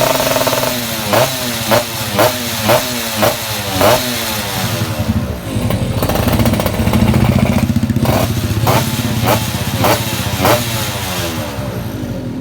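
Yamaha F1ZR's two-stroke single-cylinder engine revved through an aftermarket underslung racing exhaust. A run of quick throttle blips, each dropping straight back, leads to a longer held rev about five seconds in, then more sharp blips before it eases off near the end.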